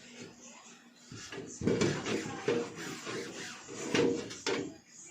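Removable refrigerator parts (drawers, shelves) being handled and wiped while washed: irregular knocks, clatter and rubbing, starting about a second and a half in.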